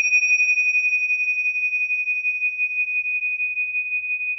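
A single high, pure ringing chime tone from one strike, held with a slight wavering pulse and fading slowly.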